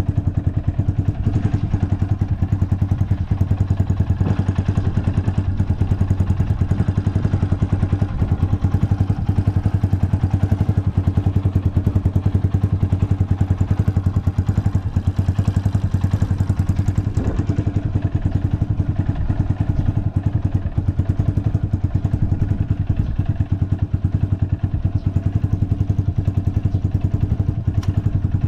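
Honda FTR223's single-cylinder engine idling steadily through a 4-inch Supertrapp full exhaust, a fast even exhaust beat with no abnormal noises.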